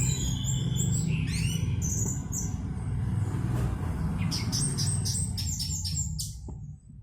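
Orange-headed thrush (anis merah) singing: a quick run of varied high whistled notes sliding up and down, then after a short pause a fast string of short repeated notes that stops about six seconds in. A low steady rumble sits under the song and drops away near the end.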